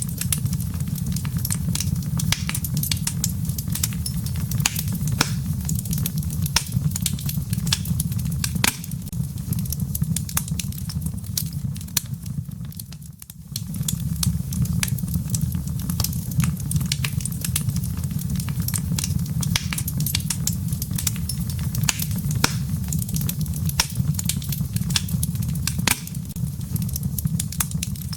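Wood logs burning in a fireplace, crackling with many sharp pops over a steady low rumble. The sound dips briefly about halfway through.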